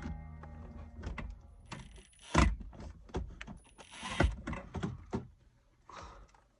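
Clatter of parts or tools being handled: a run of sharp clicks and knocks, with two heavier thumps nearly two seconds apart.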